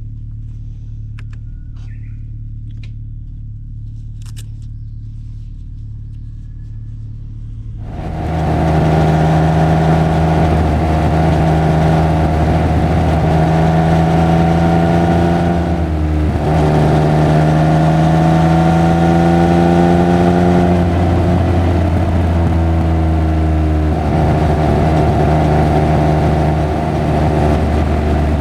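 Triumph Speed Triple 1200 RR's inline three-cylinder engine idling quietly, then from about eight seconds in running loudly under way. Its pitch climbs slowly, with a short break and a couple of drops in pitch later on.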